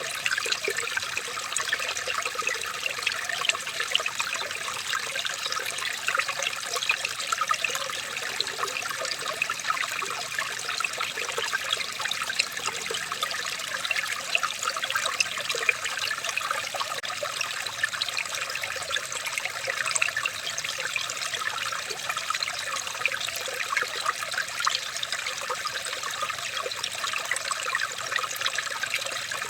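Running water trickling and splashing steadily, a continuous bright bubbling with many small splashes and no change in flow.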